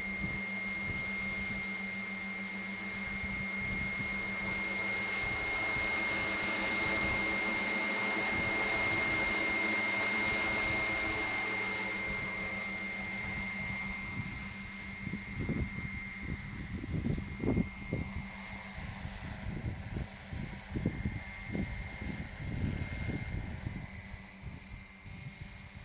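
Radio-controlled 700-size MD500E scale helicopter in flight, its rotor and motor giving a steady high whine over a rushing noise. It grows louder for a few seconds, then fades as it moves away. In the second half, gusts of wind buffet the microphone.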